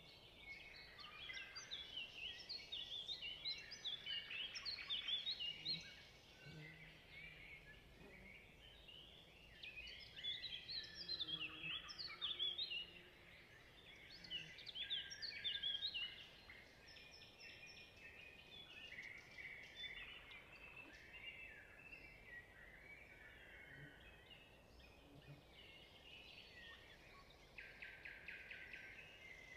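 Small birds chirping and singing in quick, high, overlapping calls, busiest in two spells in the first half and thinner after that.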